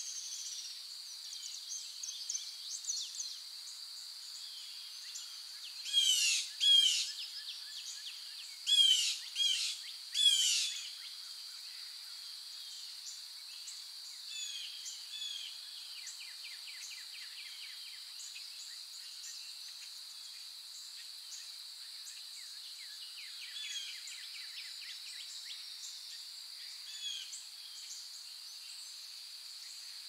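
Forest birdsong: several birds chirping and twittering, with two bursts of loud, rapid downward-sweeping calls about six and nine seconds in. A steady high-pitched hiss runs underneath.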